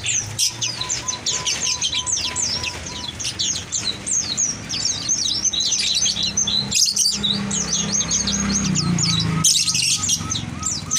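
Many small songbirds chirping and trilling at once, dense and overlapping, with a run of short even pips in the first few seconds, over a low steady hum.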